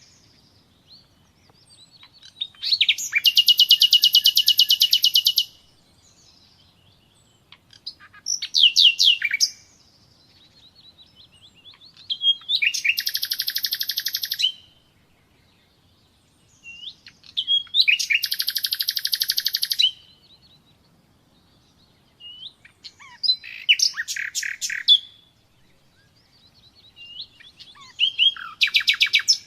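Common nightingale singing: six loud phrases of rapid repeated notes, each lasting one to three seconds, with short pauses between them.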